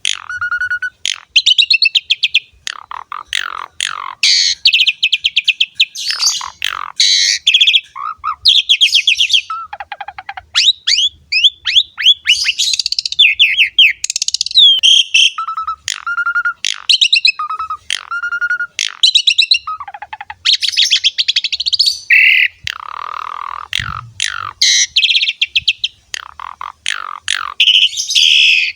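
Javan pied starling (jalak suren) singing a long, varied song: clear whistles, quick runs of repeated notes, rising and falling slurs and short harsh notes, with a short whistle repeated several times near the middle.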